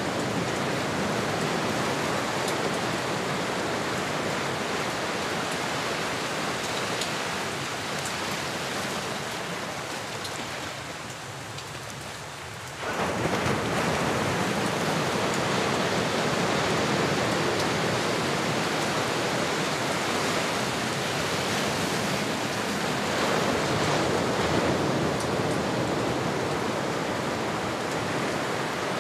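Ocean waves washing ashore in a steady rushing wash. It ebbs gradually about a third of the way in, then surges back abruptly a little before the middle and runs on.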